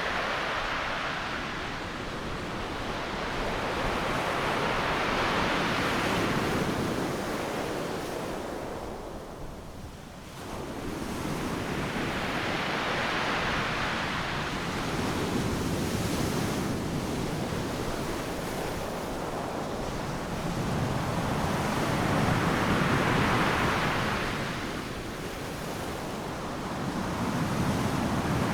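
Ocean surf breaking on a beach: a continuous hiss of waves that swells and fades every several seconds, with a brief lull about a third of the way in.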